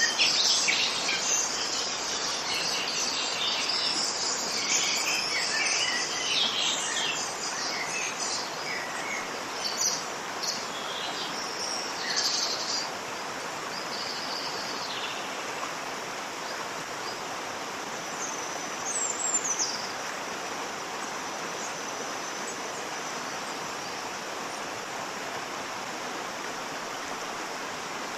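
Steady rushing of a waterfall, with small birds chirping busily over it through the first half and one short call a little past the middle.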